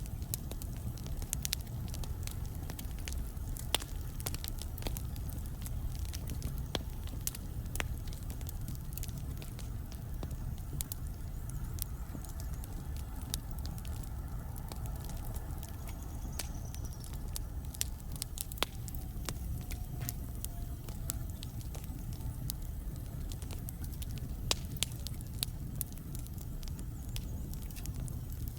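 Wood fire crackling in a fireplace: a steady low rumble from the burning logs with frequent irregular sharp pops and crackles.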